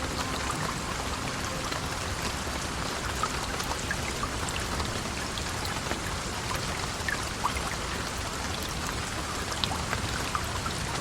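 Heavy rain falling steadily, a dense even hiss with scattered sharp ticks and pops through it.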